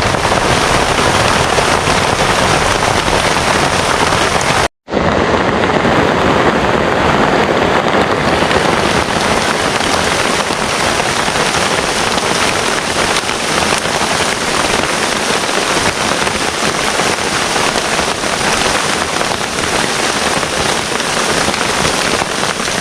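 Heavy rain pouring down in a steady, loud downpour, cutting out for an instant about five seconds in.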